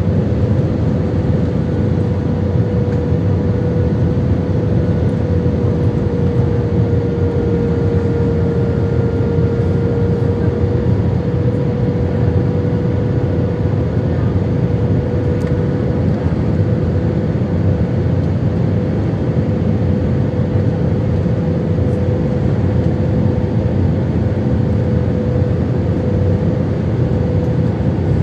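Airbus A320 cabin noise: a steady rush of engine and airflow noise with one steady tone running through it. The level holds even, with no clear thump.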